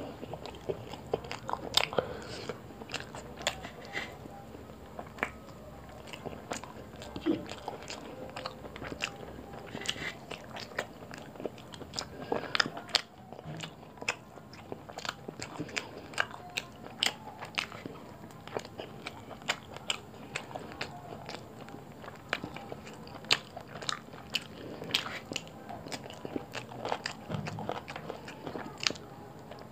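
Person chewing roti and chicken curry: many short, irregular wet mouth clicks and smacks from chewing, several a second.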